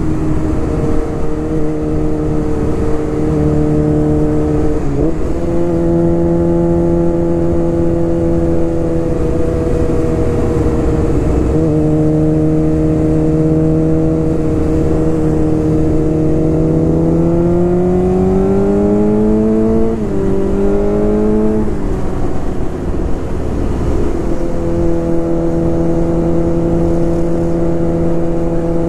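Suzuki GSX-R600 sport bike's inline-four engine heard from its own saddle, cruising at a steady pitch with wind rush on the microphone. About two-thirds of the way through the engine revs up under throttle, shifts gear, then eases off and settles back to a steady cruise.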